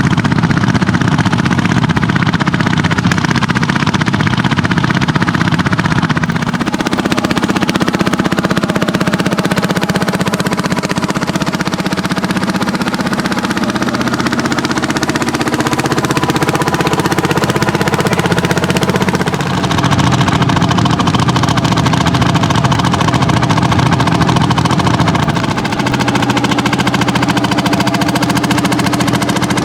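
Landini hot-bulb (testa calda) tractors' single-cylinder two-stroke engines running hard under plowing load, a steady loud knocking beat whose pitch shifts a few times as the engines change load.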